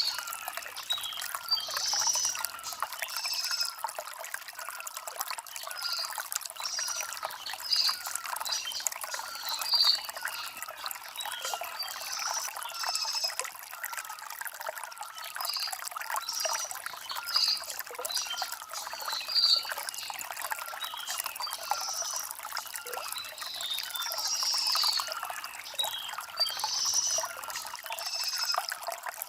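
Shallow stream trickling and gurgling over river stones, with short high bird chirps repeating every second or two above the water.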